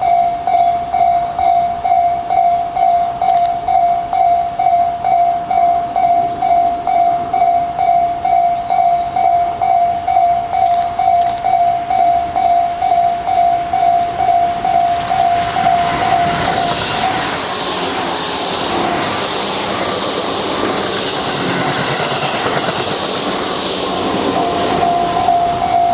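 Japanese level-crossing warning bell ringing about twice a second while a Tobu Tojo Line train passes with a rising rush of wheel and motor noise from about fifteen seconds in. The bell stops about two seconds into the pass and starts ringing again near the end.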